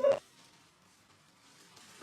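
A voice breaks off abruptly a fraction of a second in, followed by near silence.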